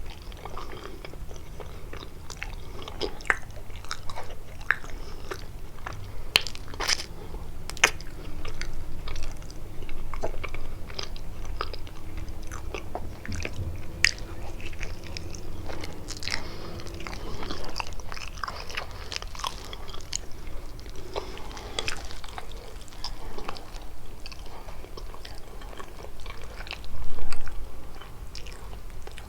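Close-miked biting and chewing of kalaj, a sweet pastry filled with walnuts or cheese: irregular crunches and wet mouth clicks. There is one louder noise near the end.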